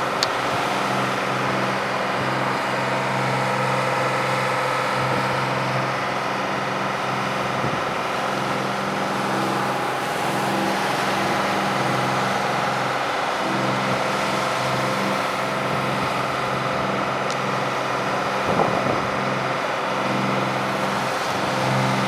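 An engine running steadily at a constant speed, a continuous low hum that holds the same pitch throughout.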